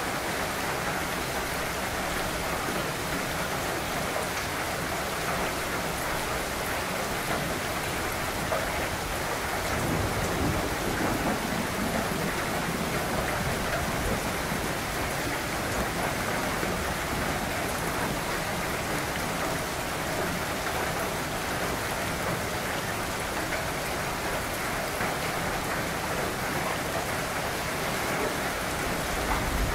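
Steady rain falling on leafy trees and a lawn, an even hiss throughout. About ten seconds in, a low rumble swells for a couple of seconds under the rain.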